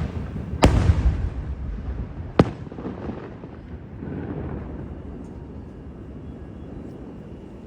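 Aerial fireworks bursting: a loud shell burst just under a second in with a long rolling boom after it, a sharp bang at about two and a half seconds, and a softer rumbling burst near four seconds, the echoes then dying away.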